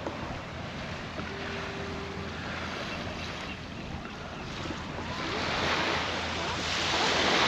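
Ocean surf washing on a sandy beach, a steady rush that swells louder over the last couple of seconds as a wave breaks and washes in.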